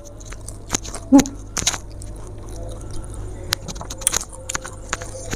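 Close-miked eating: chewing and wet mouth clicks coming irregularly, with a short hum about a second in.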